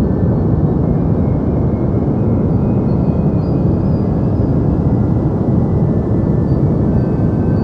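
Steady, deep rushing noise with most of its weight in the low end and no change in level: a continuous 'deep white noise' sleep track.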